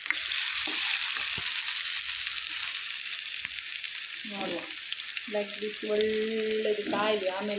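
Batter-coated chicken drumsticks sizzling as they shallow-fry in hot oil in a pan. The sizzle swells right at the start as a second drumstick is lowered into the oil. A voice joins over it in the second half.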